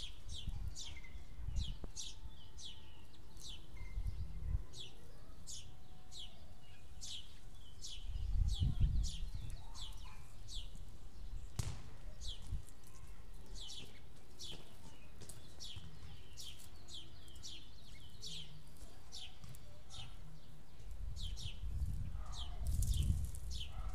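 A bird calls a short, high, downward-sweeping chirp over and over, about twice a second. A low rumble of wind or handling on the microphone comes and goes, most strongly around the middle and near the end.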